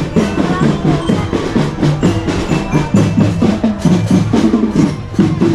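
Primary-school drum band playing: a steady pattern of drum strokes with a melody of stepping notes carried over it.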